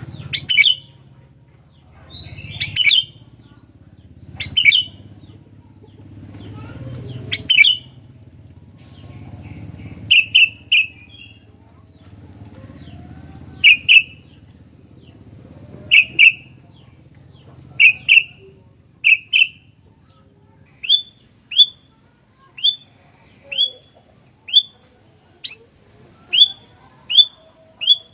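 Sooty-headed bulbul (kutilang) giving short, sharp repeated calls. They are spaced a second or two apart at first and quicken to more than one a second in the last third. A low steady hum runs underneath through the first two-thirds.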